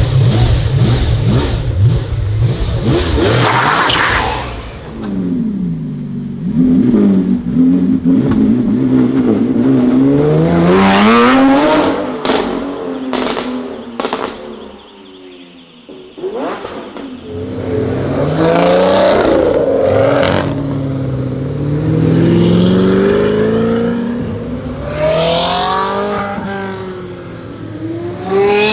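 Supercar engine accelerating hard through the gears, its pitch rising and dropping back at each upshift every second or two. It eases off and goes quieter near the middle, then pulls through several more upshifts.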